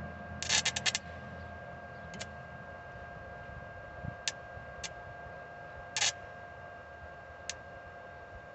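Stick (arc) welder being struck: short, sharp crackles as the rod arcs briefly and sputters out. There is a quick cluster of them about half a second in, then single ones every second or so, over a steady high whine.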